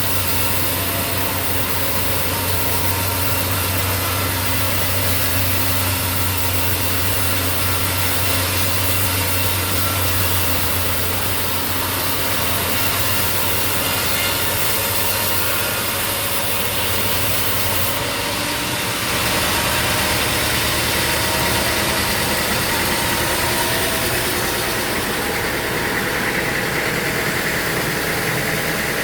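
An engine running steadily at idle, its tone shifting about two-thirds of the way through.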